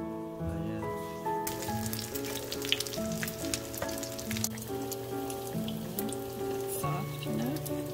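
Gentle background music with a melody of held notes, joined about a second and a half in by a steady crackling sizzle of food frying in a pan.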